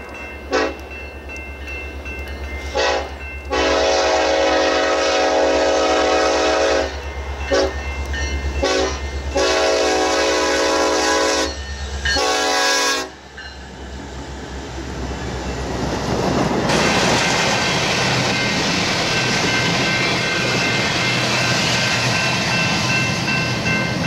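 Air horn of Norfolk Southern diesel freight locomotives blowing a series of long and short blasts as the train approaches, over the low drone of their engines. The horn stops about halfway through, and the rumble and clatter of the passing freight cars then grows and runs on steadily.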